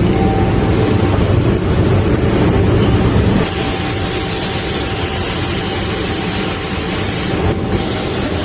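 Sandblasting equipment running: a loud, steady hiss of compressed air and grit over a low machine rumble. The hiss strengthens about three and a half seconds in and dips briefly near the end.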